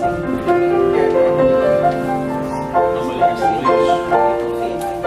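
Keyboard music playing a slow melody of held notes that change every half second or so.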